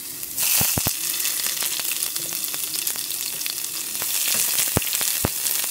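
Sliced onion sizzling in hot oil in a frying pan as it is sautéed until soft and translucent. The sizzle jumps louder about half a second in. A few sharp taps come from the stirring utensil against the pan, three early on and two more near the end.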